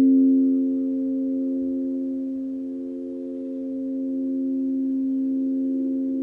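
Several steady, pure tones sounding together in the middle-low register, like crystal singing bowls or generated healing frequencies. One of the pitches takes on a slow pulsing wobble partway through.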